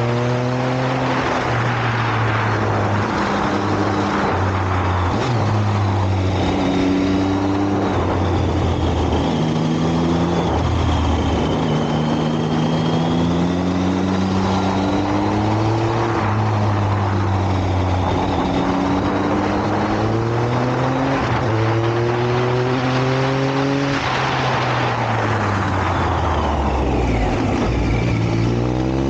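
Motorcycle engine under way, its pitch climbing as it revs through each gear and dropping at each shift, over a steady rushing noise. Near the end the revs fall away in one long drop as it slows, then climb again.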